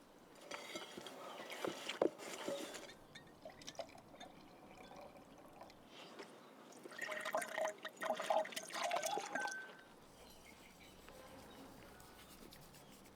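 Water splashing and trickling in two spells, the first starting about half a second in and the second around seven seconds in, each lasting a couple of seconds.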